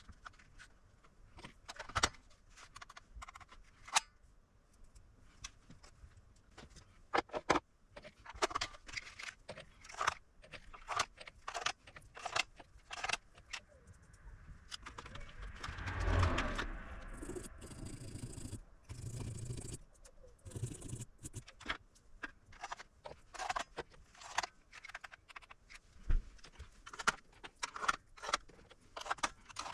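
Irregular small clicks, taps and light metallic rattles from parts and tools being handled on a workbench, with a longer rustling scrape about 16 seconds in.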